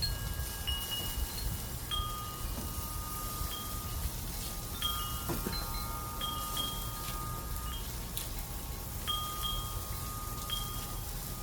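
Wind chimes ringing in a breeze: several clear metal tones at different pitches, struck irregularly every second or so, each ringing on for a few seconds.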